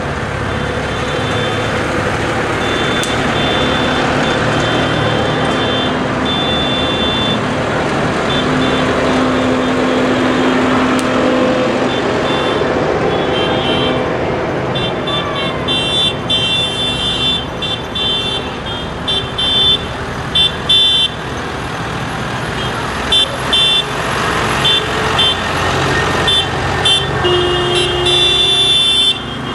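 Parade tractors' diesel engines running steadily as they drive past, with horns tooting on and off, more often in the second half.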